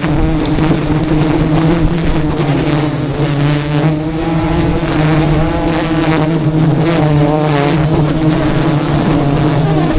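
A swarm of wild honeybees buzzing loudly close around the microphone: a steady deep hum, with the pitch of single bees rising and falling as they fly past.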